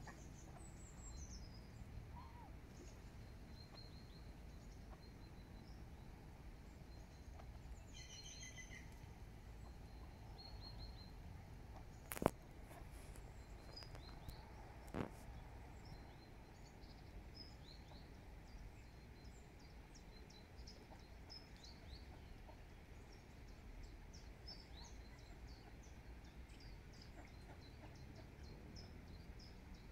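Faint outdoor ambience: scattered short, high bird chirps and calls over a steady low background hum, with two sharp clicks about twelve and fifteen seconds in.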